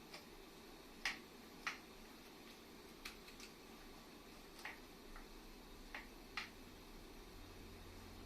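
About ten light, irregular clicks and taps of hand tools and small parts being handled while an air compressor is taken apart; the sharpest two come about a second in.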